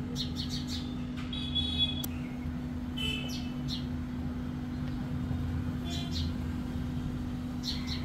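Birds chirping in short scattered calls over a steady low hum, with one sharp click about two seconds in.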